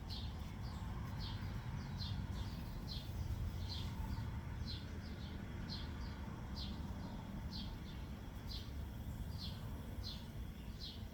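A small bird chirping over and over: short, high chirps that drop in pitch, about two a second and somewhat irregular, over a low steady hum.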